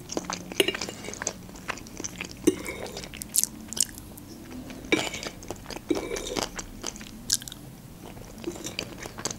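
Close-miked chewing and mouth sounds of a person eating Olivier salad, with short sharp clicks of a metal fork against a plate scattered throughout.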